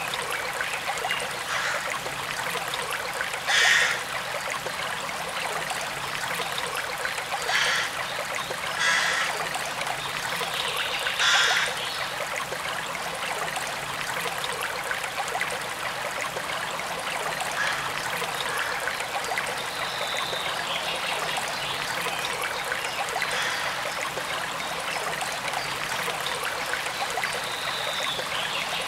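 Forest stream trickling and running steadily. Four brief louder bursts come in the first half, about four, eight, nine and eleven seconds in.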